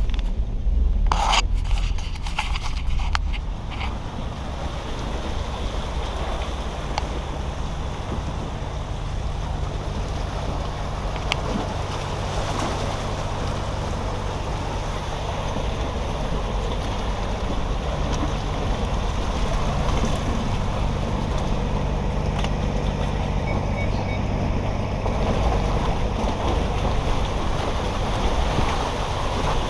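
Diesel engine of a Peterbilt 379 grain truck running steadily under a constant rush of road and wind noise, with a few sharp knocks in the first couple of seconds.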